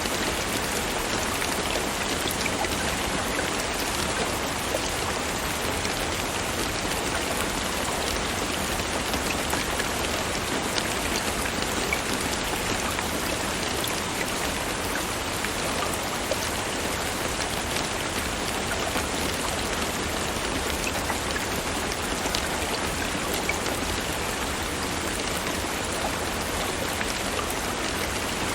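Steady rain falling, a dense even patter of raindrops with scattered individual drop ticks.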